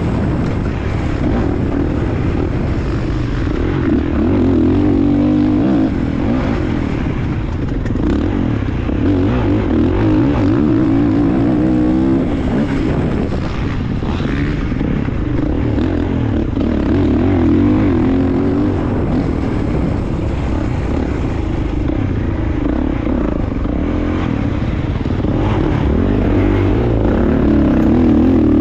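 Dirt bike engine heard from an onboard camera during a motocross lap, revving up and easing off again and again as the rider works the throttle.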